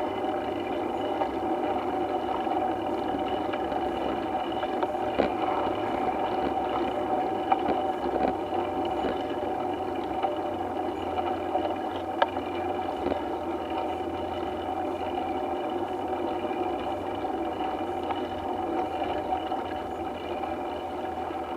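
A steady engine-like mechanical drone that holds one pitch throughout, with a few sharp clicks, near 5, 7.5 and 12 seconds in.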